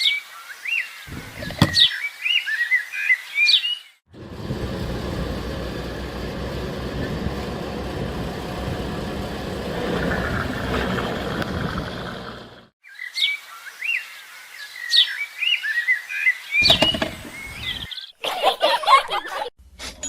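Birds chirping in short, quick calls, cut twice by other sound: in the middle stretch, a steady, dense low hum that sounds mechanical and is the loudest part; near the end, a further jumble of short sounds.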